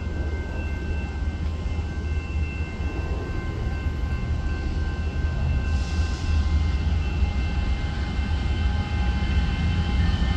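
A passing train, running with a steady low rumble and several steady high-pitched tones over it, growing slowly louder.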